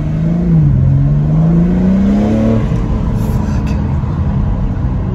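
BMW M4 (G82) twin-turbo straight-six heard from inside the cabin, accelerating at about half throttle in sport mode. The revs dip about half a second in, climb steadily for about two seconds, then drop back and hold.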